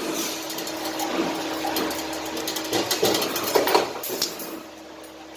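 2D CNC wire bending machine running: a steady motor hum with scattered metallic clinks and knocks as the steel wire is fed and bent. It quietens briefly near the end.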